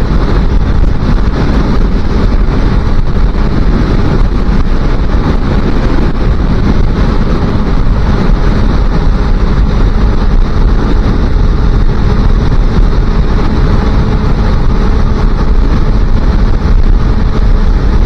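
A Japanese 250 cc motorcycle engine running steadily at cruising speed under heavy wind noise on the microphone. The engine runs smoothly, not missing a beat.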